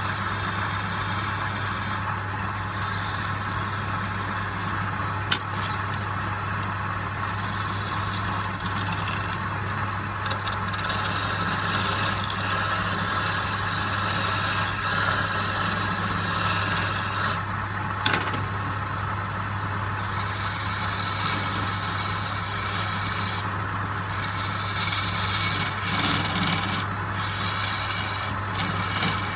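Woodworking power tool's electric motor running steadily with a constant low hum, with sharp clicks about five seconds in and again about eighteen seconds in.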